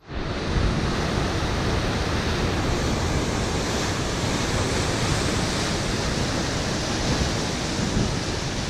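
Steady, even rushing noise of wind and surf, with no break or change; it starts abruptly at a cut.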